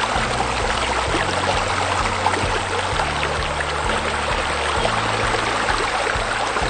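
Steady rush of flowing water, like a waterfall, over soft music whose low held notes change every second or two.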